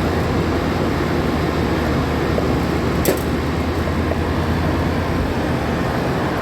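Midea 30-ton rooftop air-conditioning unit running with its new compressor: a steady loud hum and fan noise, with one brief click about three seconds in.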